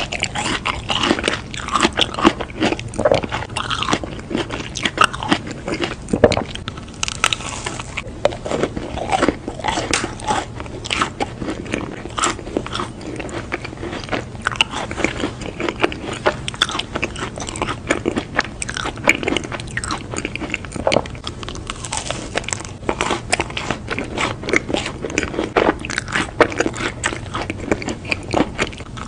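Close-miked biting and chewing of a macaron, its crisp shell crunching in dense, irregular crackles.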